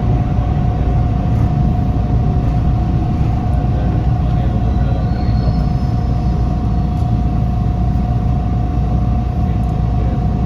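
Toronto subway train on Line 2 heard from inside the car, running with a loud, steady rumble and a constant hum tone over it.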